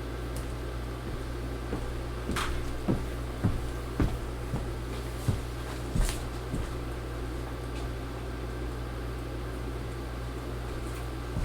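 Rummaging while searching for something on a workbench: a string of short knocks and clatters from objects being moved, from about two to seven seconds in, over a steady low electrical hum.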